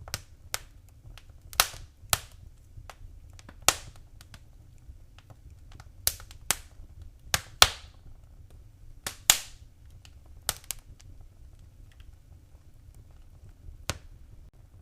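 Wood fire in a fireplace crackling: sharp, irregular pops over a low steady rumble of the flames. The pops thin out for a few seconds near the end.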